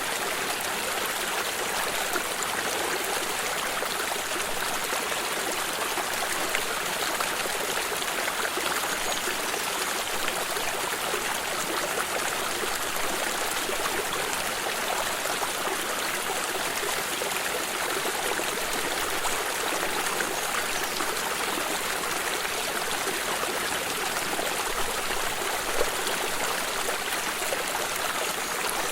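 A flowing stream: water running and trickling over stones in a steady, even rush.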